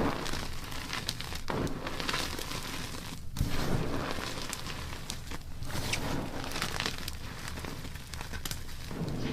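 Block gym chalk being crushed and crumbled by hand: a dense, crunchy crackling of many small cracks and crumbles, broken by several sudden cuts between takes.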